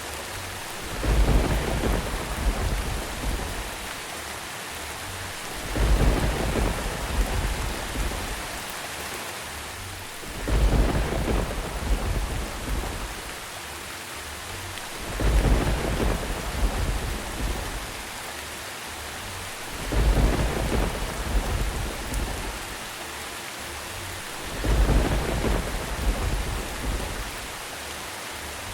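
Steady rain with a deep thunder rumble swelling up about every five seconds, six rumbles in all, evenly spaced like a repeating loop.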